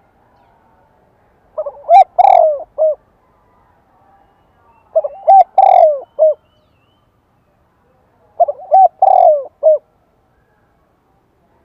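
Spotted dove cooing: three phrases of several low coos each, a few seconds apart. It is the male's song used as a calling lure to get other doves to coo back.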